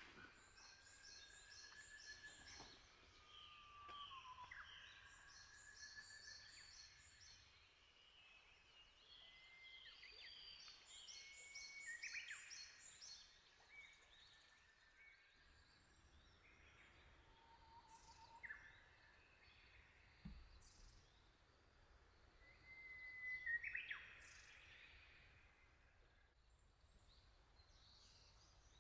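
Faint birdsong in a forest: a bird repeating a quick run of five or six high notes three times, with other birds giving long whistled notes and short sliding calls.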